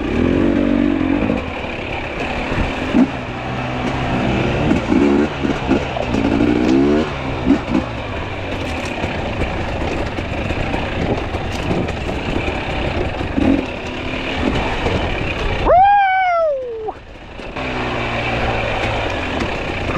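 Fuel-injected two-stroke enduro motorcycle engine running on a trail, its revs rising and falling with the throttle. About sixteen seconds in it revs sharply high, the pitch falls away and the engine note briefly drops out for about a second before it pulls again.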